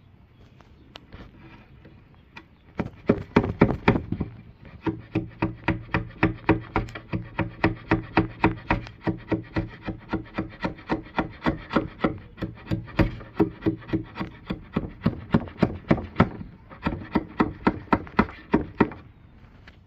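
Rhythmic scraping on wood, about three strokes a second, as dried glue is worked off a wooden tabletop. The strokes start about three seconds in and stop shortly before the end, with a faint steady hum under the middle stretch.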